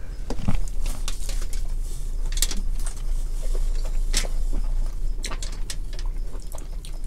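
Close-up eating sounds of lobster meat being chewed, with scattered wet clicks and smacks, over a steady low hum.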